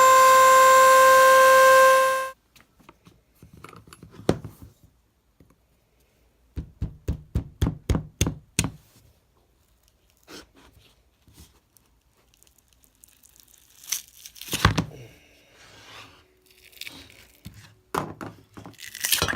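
Router with a flush-trim bit running with a steady high whine, cut off about two seconds in. Then scattered knocks and taps, a quick run of them a few seconds later, and more knocking and scraping near the end as the template held on with double-sided tape is worked off the phenolic insert blank.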